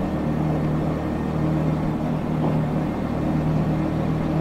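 Yamaha MX King 150's single-cylinder four-stroke engine running steadily under way, heard through its stock exhaust.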